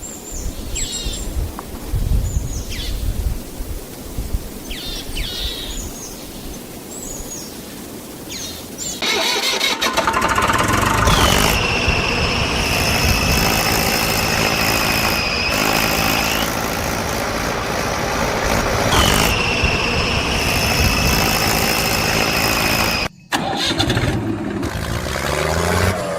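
Birds chirping over a low rumble. About nine seconds in, a loud motor sound starts, with a high whine that rises and then holds steady, twice. It cuts out briefly near the end.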